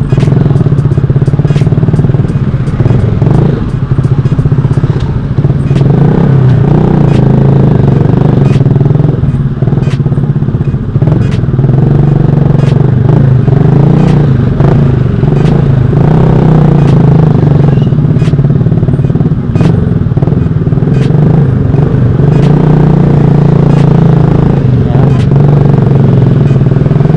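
Motorcycle engine and exhaust running loud and steady while riding, easing and swelling now and then, with frequent short clicks.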